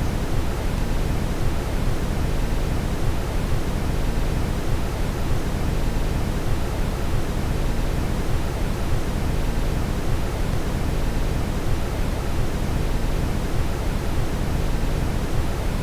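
Steady brown noise: a deep, even rumbling hiss, heaviest in the low end, with no change.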